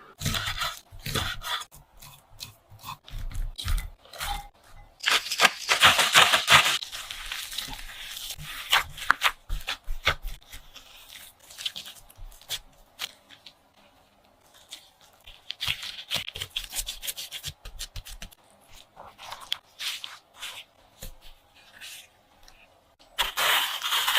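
Irregular clicks, taps and rustling from things being handled, with longer, louder stretches of rustling or tearing about five seconds in, about fifteen seconds in, and near the end.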